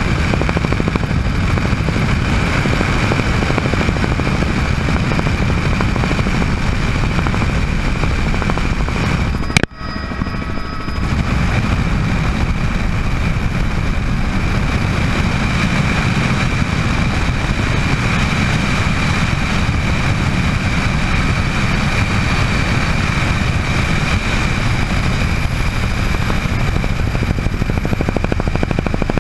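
Bell 206 JetRanger helicopter running steadily: a dense rotor and engine drone with a constant high whine from its Allison 250 turboshaft turbine. About ten seconds in, the sound cuts out abruptly and builds back over about a second.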